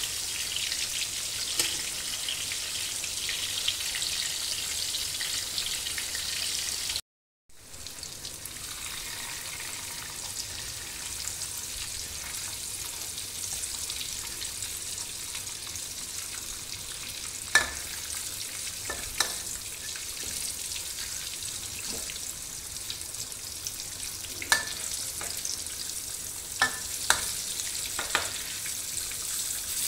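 Marinated tofu pieces sizzling steadily as they fry in hot oil in a steel wok. The sound drops out briefly about seven seconds in. In the second half there are a few sharp metal clinks as a spatula turns the pieces against the wok.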